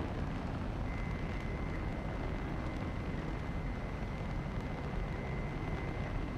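Steady low rumble of an airplane, with a thin, steady high whine joining about a second in.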